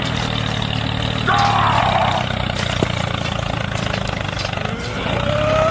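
A DIY mini tractor's small motor running steadily. About a second and a half in, a brief falling pitched tone sounds over it.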